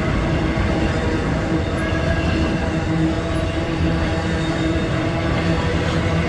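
Long BNSF freight train rolling past: a loud, steady rumble of wheels on rail with a constant low hum.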